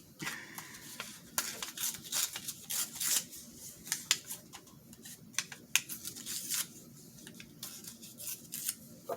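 Paper being handled up close: irregular rustling and crinkling, with short sharp snips or tears scattered throughout.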